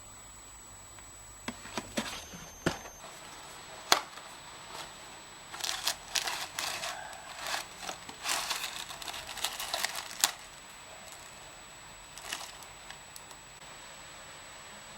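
Intermittent crinkling and rustling handling noise with several sharp clicks, busiest between about five and ten seconds in.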